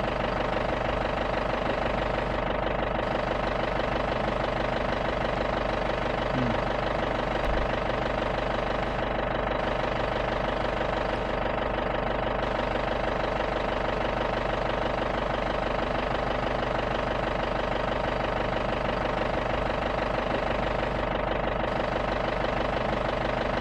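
Safari jeep's engine running at a steady, unchanging pitch, with a knocking clatter.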